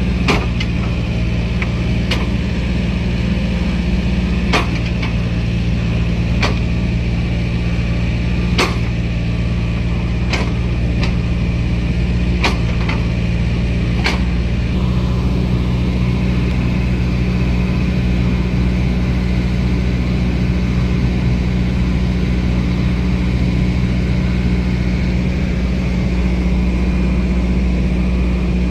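Heavy diesel engine of an excavator unloading coal slag from a barge, running steadily. About nine sharp knocks come one to two seconds apart in the first half, then only the engine.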